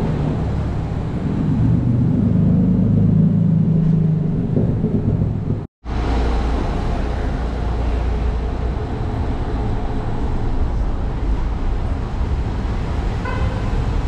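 A car engine running with road rumble, in two segments split by an abrupt cut: first a stronger engine hum, then a steady low rumble. A few brief high tones sound near the end.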